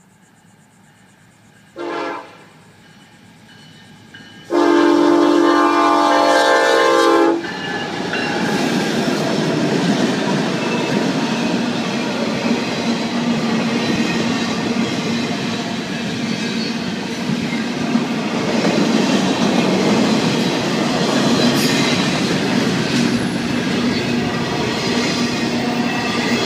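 Florida East Coast Railway freight locomotive horn sounding a short blast about two seconds in, then a long blast of about three seconds. The locomotives and a long train of double-stack container cars then roll past with a steady clatter of wheels on the rails.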